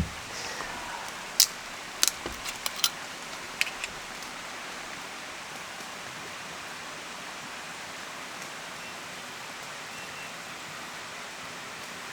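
Steady rushing of water, with a handful of sharp clicks in the first four seconds.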